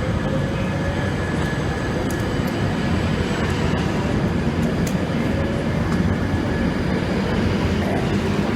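A train running steadily at a station platform: a loud, even rumble with a faint steady whine over it, and a few faint clicks.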